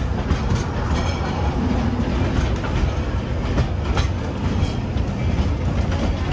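Calico Railroad narrow-gauge steam train rolling along the track, heard from aboard: a steady rumble with occasional clicks of the wheels on the rails.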